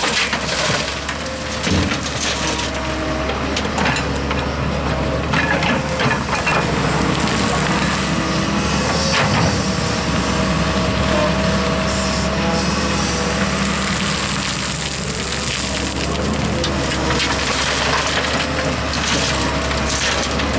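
Diesel excavator engine running under load, with irregular crunching and clattering of soil and rock as it digs and dumps.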